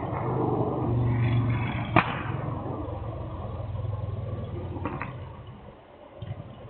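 Motorcycle engine running with a steady low drone, with a sharp exhaust pop about two seconds in and a smaller crackle near five seconds, then fading away.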